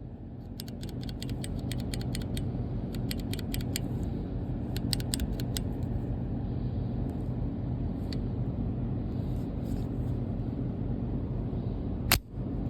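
Quick runs of light metallic clicks, then a single pistol shot near the end, over a steady low rumble.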